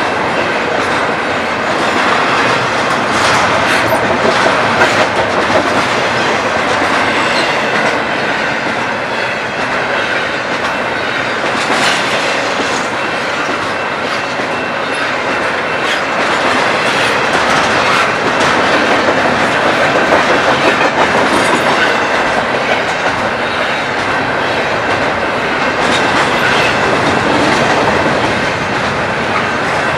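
Freight train cars rolling steadily past at a grade crossing, wheels clattering over the rails, with a faint steady high-pitched wheel squeal running under the noise.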